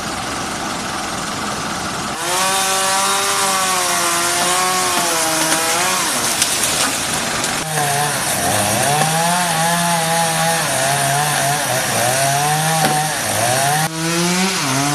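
Petrol chainsaw cutting up a fallen tree trunk. After about two seconds it revs up, and its pitch wavers down and up as the chain bites into the wood.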